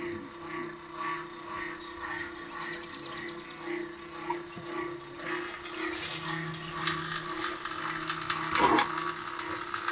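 A machine whirring steadily with a regular pulse about twice a second, mixed with a splashing, liquid sound that grows louder from about five seconds in.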